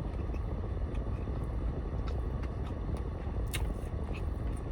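Steady low rumble of an idling car heard from inside the cabin, with the air conditioning running. A few faint short clicks of chewing sit on top.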